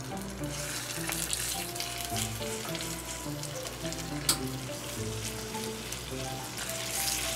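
Raw chicken thigh pieces sizzling as they are laid skin side down into hot olive oil in a frying pan, with a single sharp click about four seconds in.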